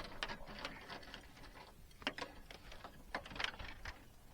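Fishing reel being cranked, a quick run of ratcheting mechanical clicks coming in short spells.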